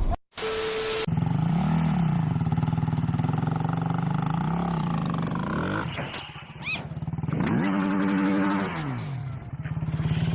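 A vehicle engine running, its pitch rising and falling a few times as it revs, after a brief hiss with a steady tone at the very start.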